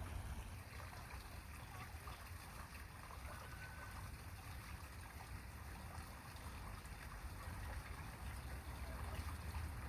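Faint outdoor ambience at a pond: a steady low rumble with an even faint hiss, and a few faint short tones about three and a half seconds in.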